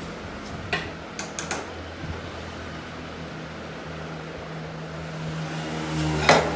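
A workshop machine running with a steady low hum, with a few light clicks about a second in and a single sharp knock near the end.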